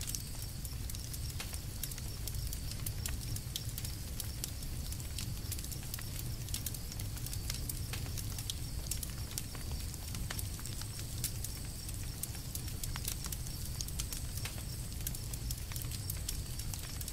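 Campfire burning: irregular sharp crackles and pops over a low steady rumble.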